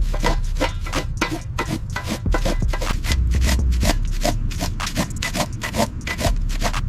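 Rapid back-and-forth rubbing strokes on a surface, about five a second, over a steady low hum.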